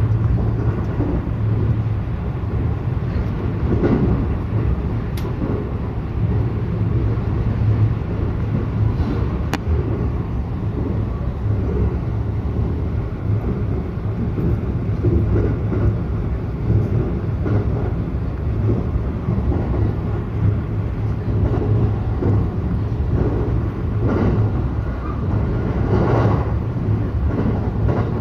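Electric local train running along the line, heard from inside the passenger car: a steady low rumble of wheels on rail, with a couple of faint clicks and some swells of track noise near the end.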